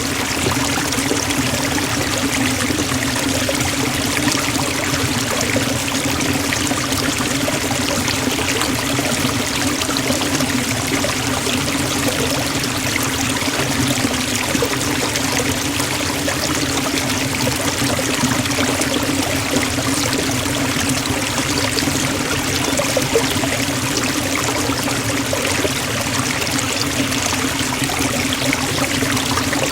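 Forest waterfall pouring steadily, an unbroken rush of falling water.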